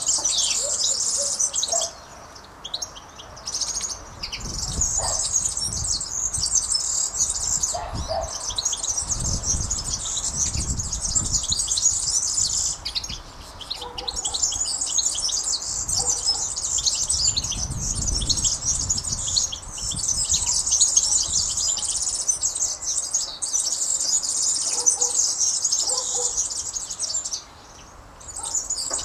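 Many small birds chirping and twittering in a dense, rapid chorus, breaking off briefly a few times, with occasional low rumbles underneath.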